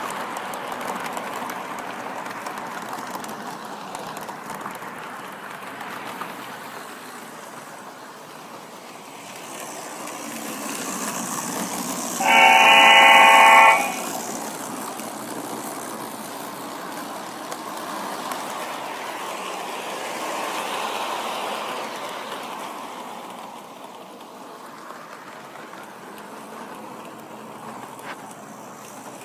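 A Lionel model train locomotive running on a layout, with a steady running noise throughout. About twelve seconds in, its sound system gives one loud horn blast lasting about a second and a half.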